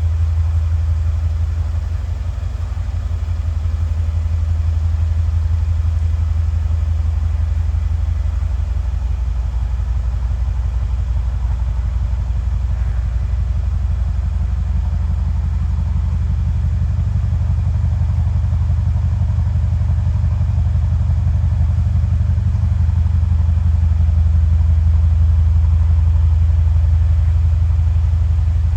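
2015 Mercedes-AMG C63 S's V8 idling steadily with a low, even rumble, still warming up after a cold start.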